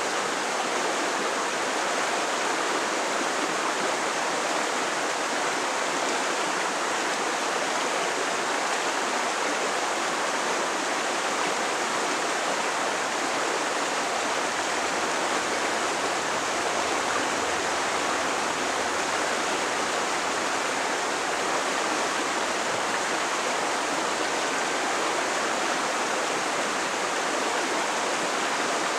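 A creek's water rushing and burbling over rocks, a steady, unbroken flow.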